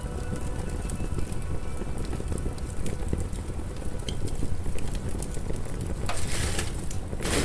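Wood fire crackling in a fireplace, many small pops over a low steady rumble, with a stretch of louder hiss about six seconds in.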